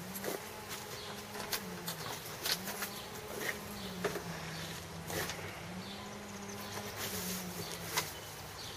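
A low buzzing hum that slowly steps back and forth between two pitches, with scattered light clicks and knocks.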